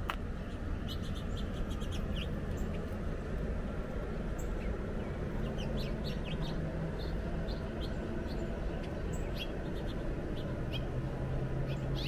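Small birds chirping, with short high calls scattered throughout, over a steady low rumble.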